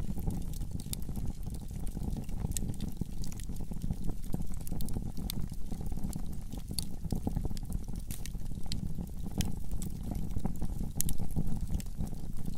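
Wood fire burning in a fireplace, a steady low rumble of flames with frequent sharp crackles and pops of the burning logs.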